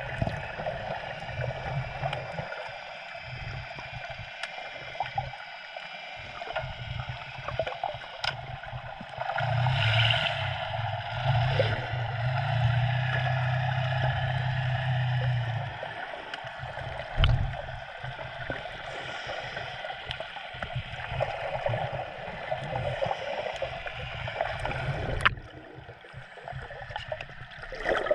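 Water sloshing and gurgling along a small sailboat's hull as it moves through a light swell, with a louder steady low hum for several seconds in the middle and a sharp click near the end.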